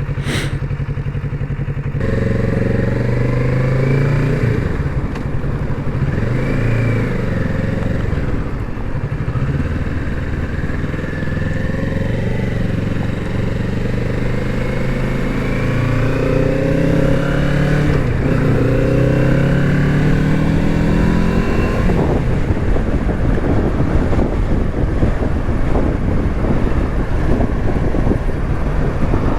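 Kawasaki Z650's parallel-twin engine running underway, its pitch stepping up and down and then rising as it accelerates through the gears. A steady rushing noise takes over for the last several seconds.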